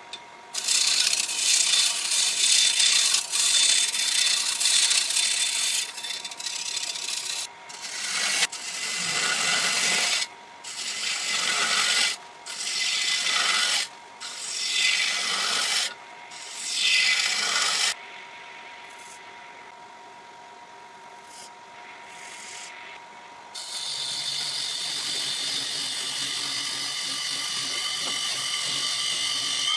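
Turning tool scraping and cutting wood on a running lathe: a long loud stretch, then a series of separate passes with short breaks between them, a quieter spell where only the lathe's steady hum is heard, and steady cutting again near the end.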